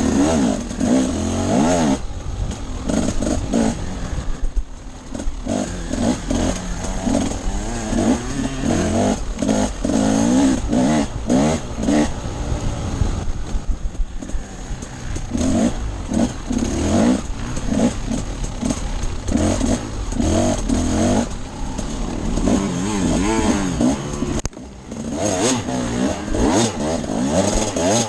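Off-road dirt bike engine being ridden, its pitch rising and falling as the throttle opens and closes. It eases off several times, most sharply about three-quarters of the way through, then picks up again.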